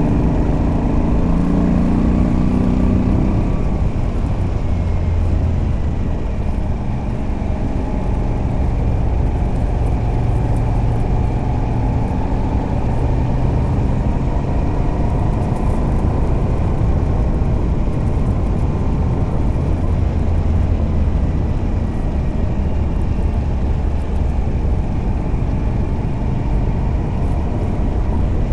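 Moto Guzzi V85TT's air-cooled transverse V-twin running under way, through a stock exhaust with a Mistral decat pipe. It pulls harder for the first few seconds, then settles into a steady cruise.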